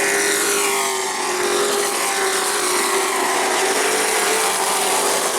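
Racing truck engines running at high revs on an asphalt short track, a steady loud engine drone.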